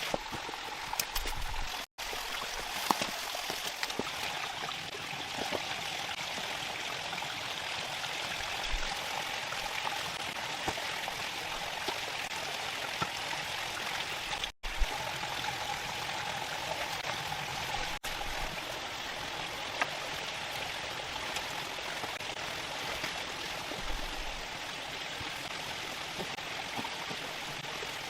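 Steady rushing of running water, with two very brief gaps, one about two seconds in and one about halfway through.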